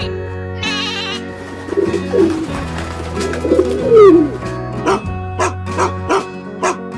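Animal calls over steady background music: low, bending cooing calls in the middle, then a quick run of about seven short calls in the last two seconds.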